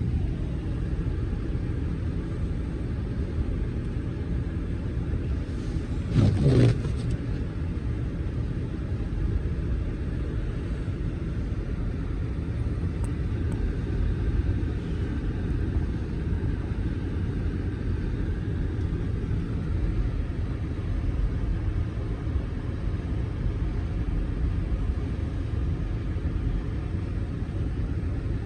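Steady low outdoor rumble, with a brief louder rush about six seconds in whose pitch sweeps downward.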